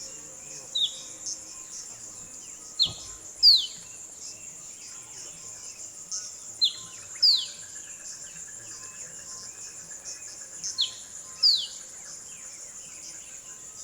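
Sunbird calling: pairs of sharp, high notes, the second sliding down in pitch, repeated about every four seconds. A steady high insect chorus of crickets runs underneath.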